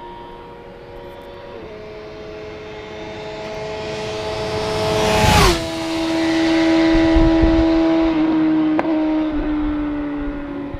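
A 600 cc inline-four sport bike approaches at speed and passes. Its engine note drops sharply in pitch about halfway through, then stays loud and steady as it runs on. A single sharp pop follows a few seconds after the pass.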